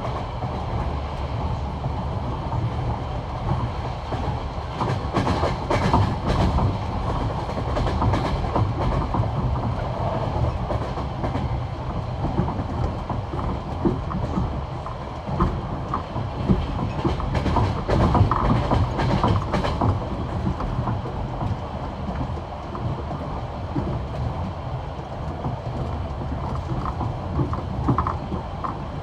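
Passenger train's wheels rolling at high speed over bolted, jointed track: a continuous low rumble with the classic clickety-clack as the wheelsets strike each rail joint.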